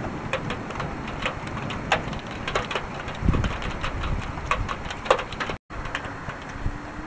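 Steady rain, with individual drops tapping sharply on a hard surface close to the microphone, several taps a second. A short low thump about three seconds in, and the sound drops out for an instant near the end.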